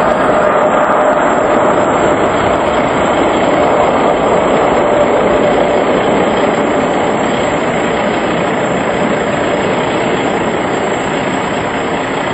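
Boeing 747 jet engines running, a loud steady rush of noise with a faint whine in it, easing off slightly toward the end.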